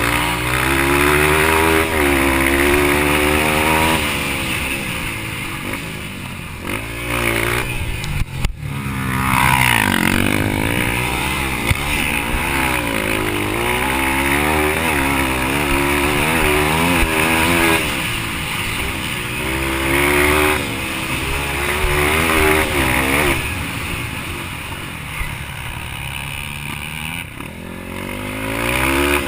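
Yamaha TT-R230 dirt bike's four-stroke single-cylinder engine being ridden hard, revving up and falling off again and again through a race lap, with a sharp knock about eight seconds in.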